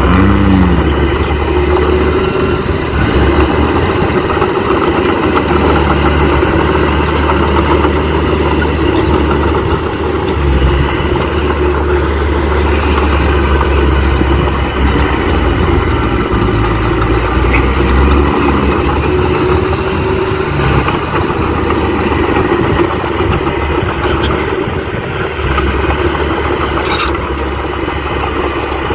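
Diesel engine of heavy earthmoving machinery running steadily, its pitch shifting a little as it works, with a few sharp clicks near the end.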